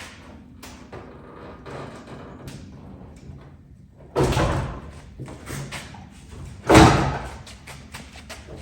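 Two heavy thuds about two and a half seconds apart, the second louder, each with a short rattling ring, and light knocks between them: a pickup's removed hood being handled and set down.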